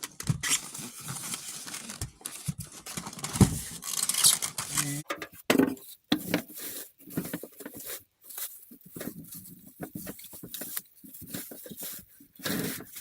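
Cardboard and plastic packaging rustling, crinkling and tearing as a new tankless water heater is unboxed, with scattered clicks and knocks as parts are handled.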